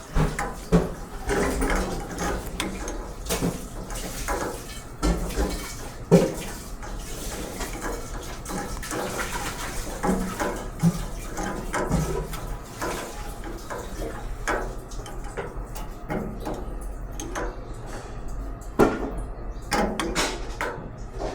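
Irregular clinks, knocks and clatter of small metal parts being handled, with a low steady hum under them.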